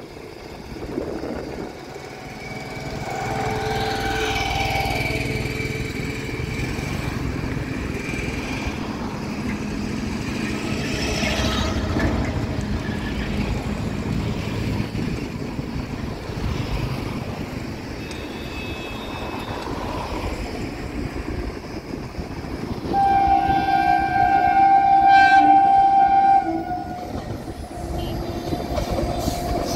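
Howrah–Kalka Netaji Superfast Express running, its wheels and coaches making a steady rumble. The locomotive horn sounds twice: a longer, softer blast a few seconds in and a louder blast of about three seconds near the end.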